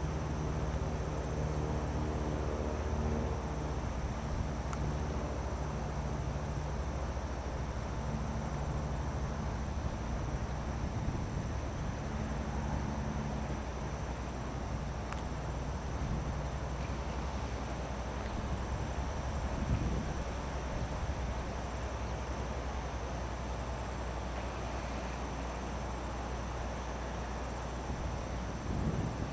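Insects trilling in a steady, high, fine-pulsed chorus over a constant low rushing noise. A low hum fades out in the first few seconds.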